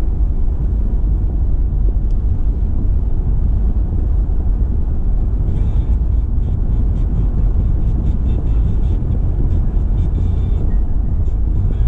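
Steady low rumble of a car driving along, with road and tyre noise. Faint light ticking or rattling comes in for a few seconds midway.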